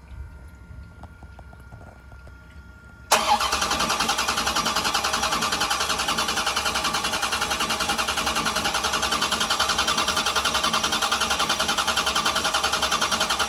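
A 1996 Chevrolet LT1 383 small-block V8 on an engine test stand comes in suddenly about three seconds in and runs steadily with an even pulsing.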